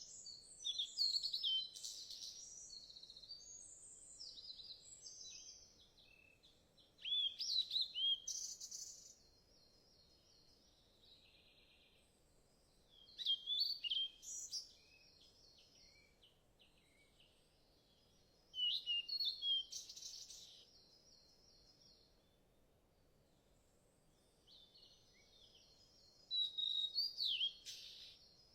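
A songbird singing high, varied phrases of quick sweeping notes and buzzy trills, about two seconds long and repeated roughly every six seconds, five times over.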